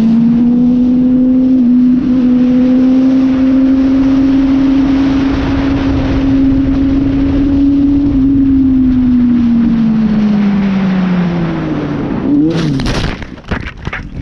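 Motorcycle engine running at steady high revs with wind rushing past. The revs fall away from about ten seconds in, then a burst of sharp clattering impacts about twelve and a half seconds in: the bike crashing.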